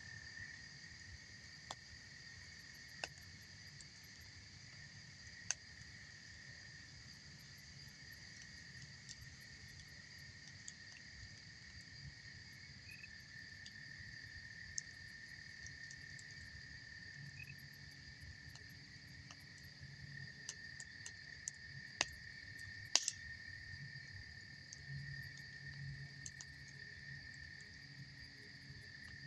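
Campfire crackling faintly, with a few sharp pops from the burning wood, the two loudest close together late on, over a steady high chorus of insects.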